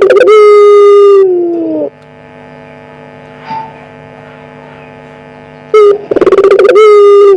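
Puter pelung dove (Barbary dove) cooing loudly twice. Each call is a short note, a rolling trill, then a long held note that slides down at the end, over a steady electrical hum.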